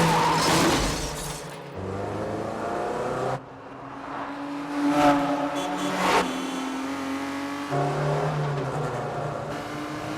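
Car-chase sound: car engines revving hard at speed, with cars passing by loudly about five and six seconds in. The engine pitch and loudness change abruptly several times, as the shots cut between cars.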